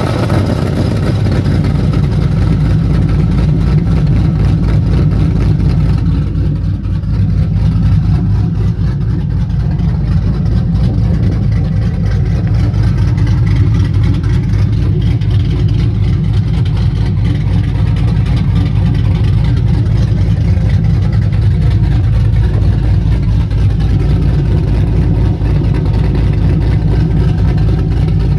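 Cammed GTO engine running through an exhaust fitted with cutouts, holding a steady low speed with a deep, even exhaust note and no revving; some of the higher-pitched noise falls away about six seconds in.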